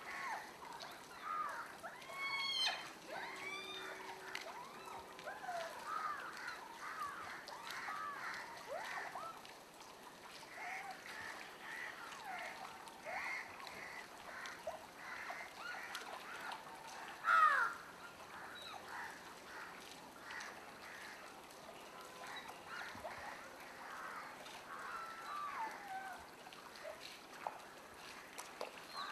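Many birds calling at once, a busy chorus of short rising and falling honking and cawing calls, with one louder call a little past the middle.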